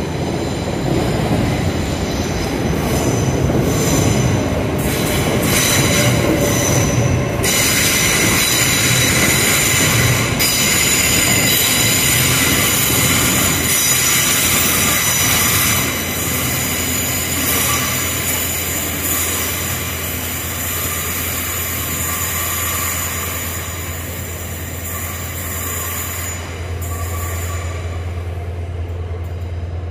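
TransPennine Express Class 802 train rolling past along curved track. Its wheels squeal with several high, steady tones from several seconds in until near the end, over the low running noise of the train.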